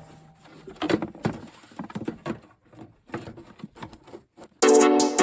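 Scattered clicks, knocks and light rattles of hand tools and small metal parts being handled during mower repair work. Background music with a steady beat comes in loudly near the end.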